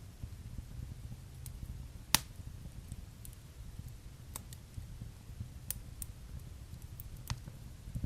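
Wood fire burning in a fireplace: a low steady rumble of flames with sharp crackles and pops scattered through, the loudest about two seconds in.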